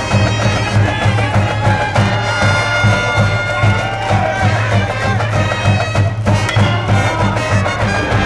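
High school brass band playing a baseball cheering song in the stands: sustained wind instrument melody over a steady drum beat.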